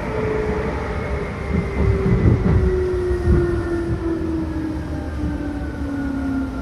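On-board running sound of a Seibu New 2000 series electric train: the traction motor whine falls steadily in pitch as the train slows, over a low rumble of wheels on rail that swells about two seconds in.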